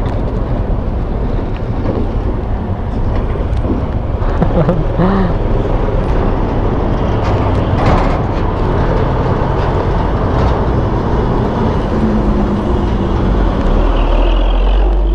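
Riding noise from a Kawasaki Ninja 150 RR: the two-stroke single running under steady wind and road noise on the action-camera microphone.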